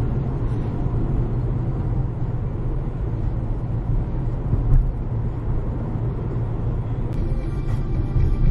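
Road vehicle driving along: a steady low rumble of engine and road noise.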